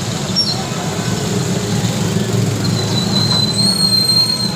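Steady low rumble of vehicle traffic, with a thin high squeal held for about two seconds in the second half.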